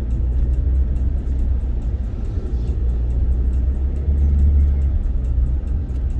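Motor vehicle driving along a road: a steady low rumble that swells briefly about four seconds in.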